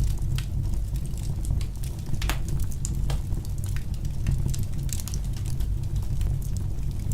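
Wood fire burning in a fireplace: many small, irregular crackles and pops over a steady low rumble of the flames.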